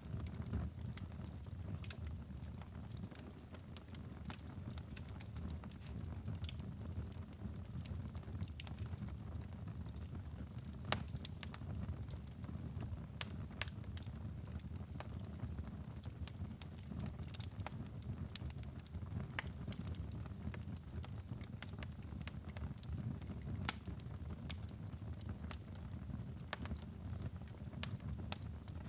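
Wood fire burning in a fireplace: irregular sharp crackles and pops of the burning logs over a steady low rush of the flames.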